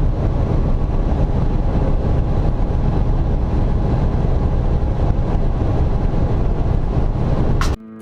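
Semi truck driving at highway speed: a steady, deep engine and road drone that cuts off suddenly just before the end.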